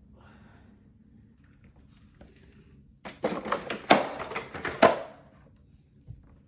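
A quick run of knocks and clattering thuds, about two seconds long, a few seconds in, with two louder knocks near the end of the run; a single faint knock follows.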